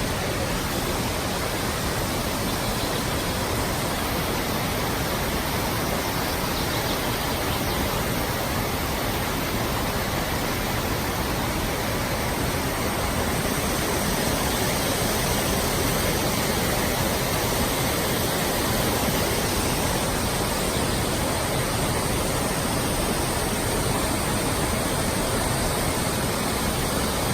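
Waterfall rushing steadily: an even roar of falling water with no change.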